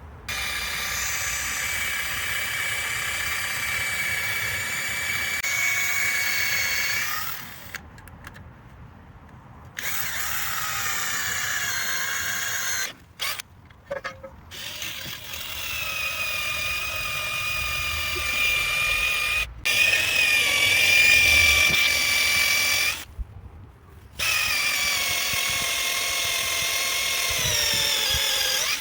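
Electric drill running in several long runs with short stops, its motor whine steady while drilling and sagging in pitch as it winds down at the end of each run.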